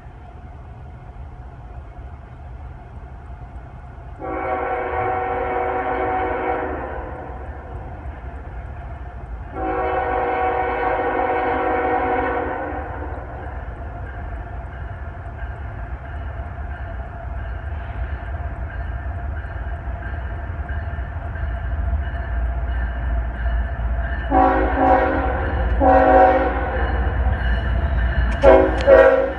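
Air horn of an approaching CSX freight locomotive sounding several tones at once: two long blasts, then a run of short ones near the end. Under the horn is a low rumble of the oncoming locomotives that grows steadily louder.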